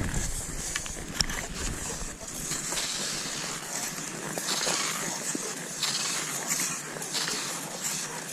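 Cross-country skis swishing over snow in a steady stride, a hiss about every two-thirds of a second, with a few sharp clicks.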